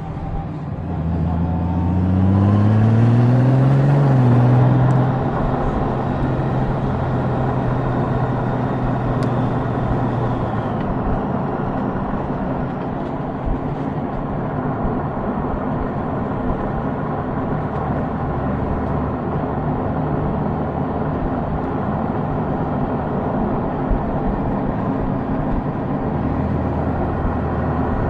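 Honda Goldwing's flat-six engine rising in pitch as the bike accelerates over the first few seconds, then holding a steady note. From about ten seconds in, steady wind and road noise while cruising covers most of the engine sound.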